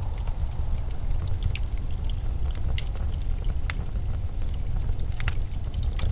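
Steady low rumble of blizzard wind, with scattered small crackles and ticks.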